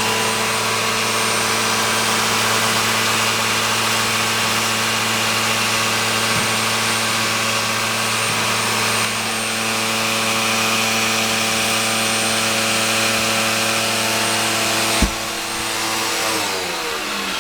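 Eureka vacuum cleaner's motor running steadily at full speed while vacuuming. There is a sharp click about 15 seconds in, then the motor's pitch falls near the end.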